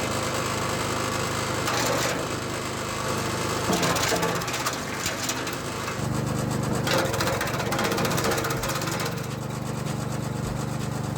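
Homemade branch chipper driven by a Vitals Master petrol engine running steadily, with branches cracking and splintering as they are chipped, several times over.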